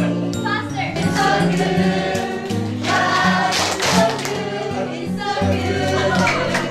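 Background music: a choir singing over sustained instrumental chords.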